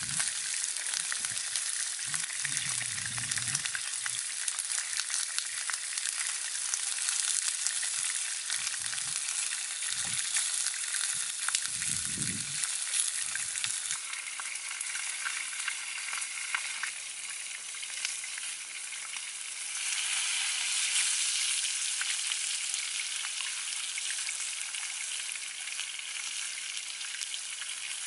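Chicken pieces and vegetables frying in a cast-iron pan over a wood fire: a steady sizzling hiss with scattered small pops. A few soft low thuds come in the first half.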